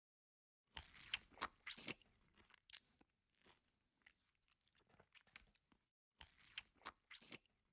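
A person chewing a mouthful of kacchi biryani, with close mouth noises: quick clicking bursts about a second in and again near the end, softer chewing between.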